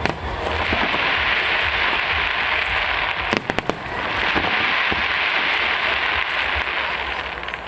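Aerial fireworks crackling in a dense rush of tiny pops. A quick run of sharp bangs comes about three and a half seconds in, then the crackling resumes.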